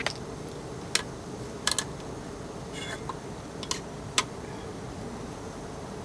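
A metal spoon clinks and taps against a mug six or so times at uneven intervals while sugar is added to freshly brewed tea. A steady hiss runs underneath.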